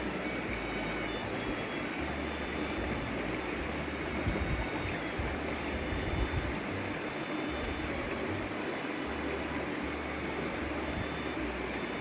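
A woodland stream flowing, a steady rush and trickle of running water.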